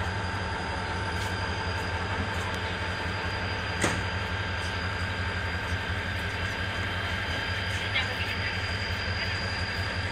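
Passenger train running steadily: a constant low rumble with a few steady tones over it, and a sharp clank about four seconds in and another near eight seconds.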